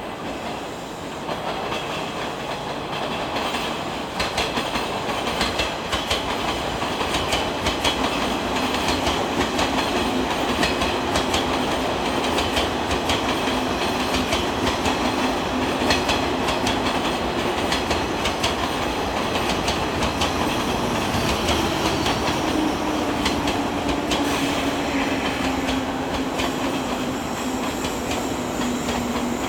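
A 185 series electric multiple unit, two sets coupled, passing: its wheels clack over rail joints in a long run of clicks over steady rolling noise. A steady hum drops slightly in pitch near the end.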